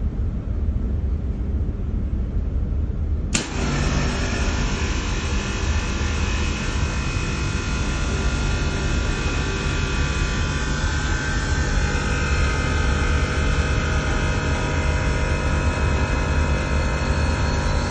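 HVAC plant equipment of a chiller and fan-coil system running: a steady low hum with several steady tones. A sharp click about three and a half seconds in, after which higher whining tones join the hum.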